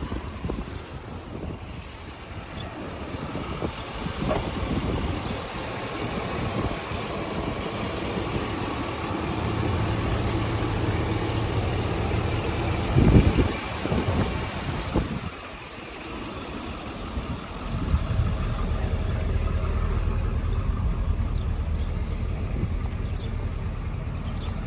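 2006 Chevrolet Silverado 2500HD pickup engine idling steadily, with a brief louder low rumble about halfway through and a short quieter stretch just after it.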